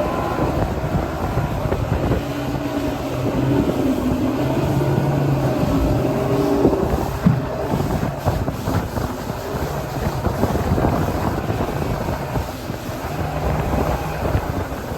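Motorboat running under way on the lake, with wind rushing over the microphone.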